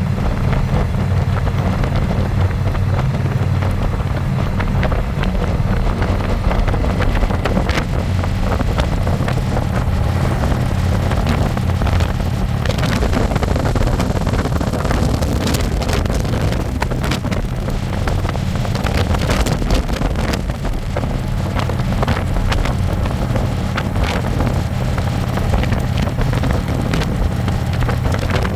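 Harley-Davidson Electra Glide's V-twin engine running steadily underway, with wind buffeting the microphone from the passenger seat.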